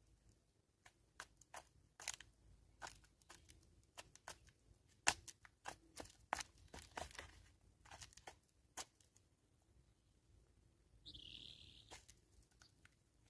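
Helmeted guineafowl pecking at feed on the ground: irregular sharp clicks and crunches, thickest around the middle, with a brief higher-pitched sound about eleven seconds in.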